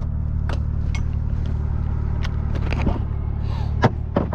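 Car engine idling steadily with a low hum, with scattered light clicks and knocks over it.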